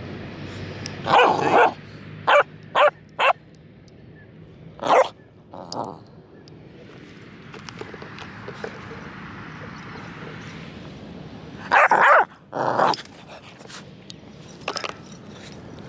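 Dog barking in short bursts: a bark, then three quick barks, two more a few seconds later, and another pair after a long pause.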